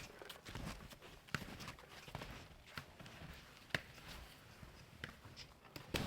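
Footsteps in snow, uneven and unhurried, with a few sharp clicks and knocks scattered among them.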